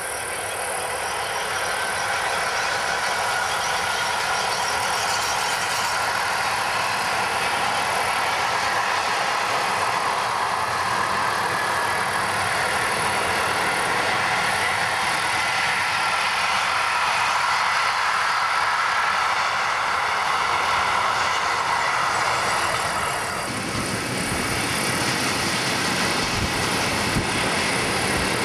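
Freight train hauled by an electric locomotive running past, its wagons giving a steady rolling rumble and rattle on the rails. Near the end the level dips briefly and the sound turns deeper as a train of tank wagons passes.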